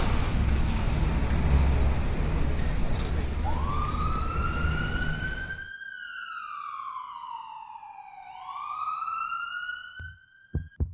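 A steady loud noise with a deep hum cuts off about six seconds in. Overlapping it and carrying on after it, an emergency-vehicle siren wails, its pitch sweeping up, down and up again, and stops just before the end.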